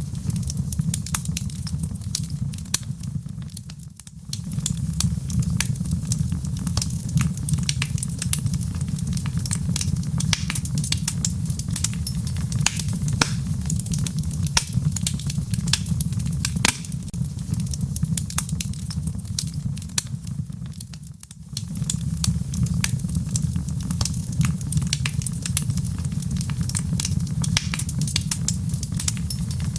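Wood fire in a fireplace crackling, with frequent sharp pops and snaps over a steady low rumble of the flames. The fire briefly dips in level twice, about four seconds in and again near twenty-one seconds.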